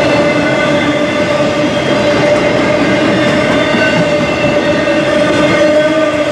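Autorack freight cars rolling past close by: a loud, steady rumble and rattle of wheels on rail, with a steady ringing whine of several tones held over it.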